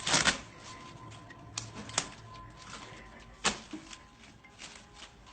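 A few irregular sharp clicks and knocks: a loud cluster right at the start, then single knocks about two seconds in and about three and a half seconds in, with softer ticks between.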